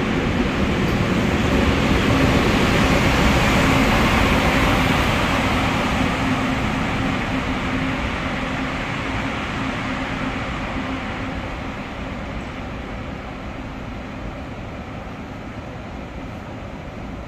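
SEPTA train moving through the station: a loud rumble with a steady low hum that peaks a few seconds in, then fades gradually as the train draws away.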